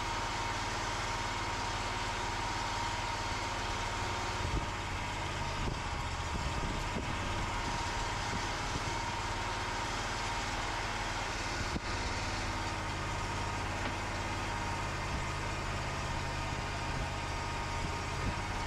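The engine of a full hydraulic sawmill running steadily, powering the hydraulics as a log is pushed into place, with a few knocks partway through.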